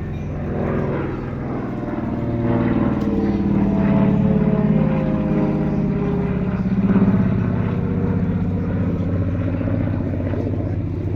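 Twin Pratt & Whitney R-985 Wasp Junior radial engines of a Lockheed 12A Electra Junior droning in flight as it passes by, growing louder to a peak about seven seconds in, then easing slightly.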